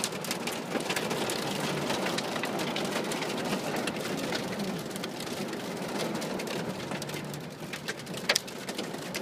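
Heavy rain with hail pelting down: a steady dense hiss with scattered sharp hits, the strongest about eight seconds in.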